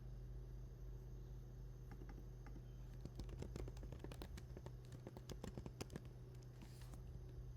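Rapid clicking of typing on a computer keyboard for a few seconds in the middle, over a steady low electrical hum.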